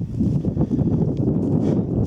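Strong mountain wind buffeting the microphone, a steady low rumble.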